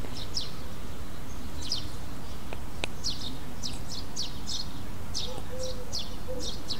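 Small birds chirping outdoors: a run of short, falling high chirps, several a second, over a steady low rumble of outdoor background noise.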